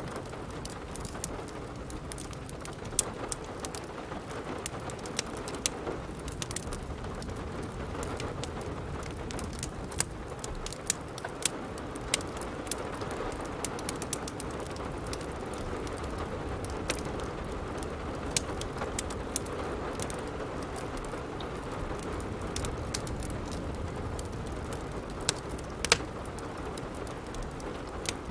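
Steady rain falling, with frequent sharp pops and crackles of a wood fire scattered through it.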